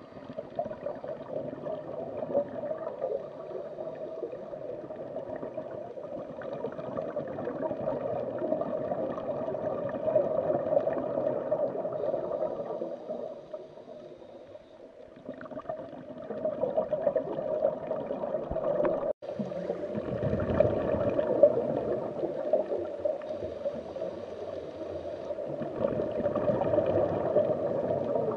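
Bubbling, gurgling underwater ambience, steady throughout. It is quieter for a couple of seconds around the middle and cuts out for an instant about two-thirds of the way through.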